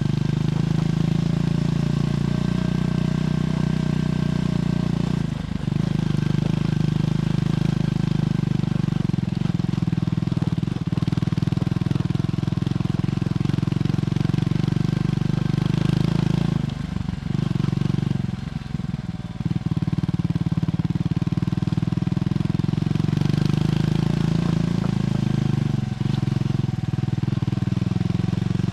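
Triumph Scrambler 400X's single-cylinder engine running through its stock exhaust while under way. The exhaust note stays deep and steady, with a few brief dips where the throttle eases off.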